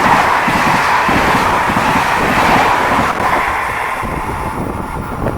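A train passing through the station at speed: a loud, steady rush of wheel and air noise that eases off after about three seconds as it goes by.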